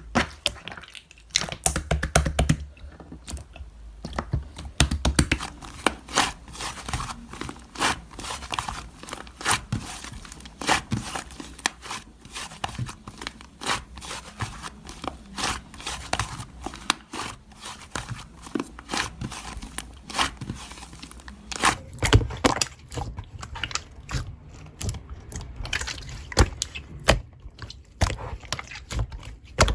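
Slime being pressed and stretched by hand, making a dense run of small clicks, pops and crackles. The recording changes about two-thirds of the way in to another clip of the same kind of popping, with more low thuds.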